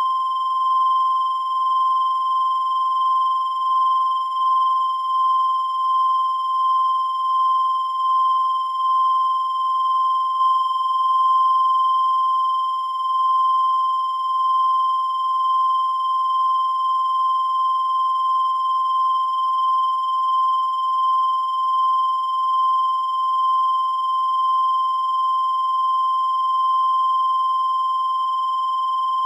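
A continuous high-pitched electronic tone, a steady beep near 1 kHz with fainter higher overtones, held without a break and wavering only slightly in loudness.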